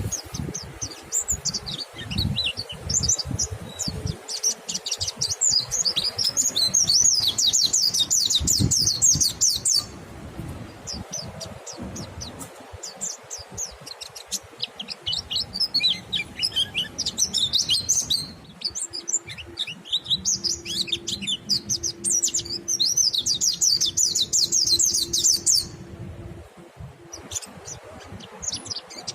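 White-eyes (pleci monty) singing long, fast, high-pitched twittering song phrases, with scattered shorter chirps between two long runs of continuous song.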